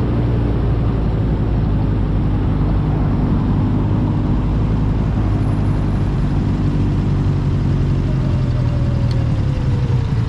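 Motorcycle engine running at a steady speed while riding, with wind noise on the microphone. Its pitch eases down slightly near the end.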